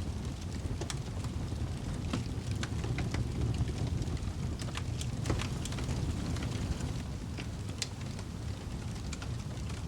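Wood fire crackling in a fireplace: scattered sharp pops and snaps over a steady low rumble, with the loudest pop about five seconds in.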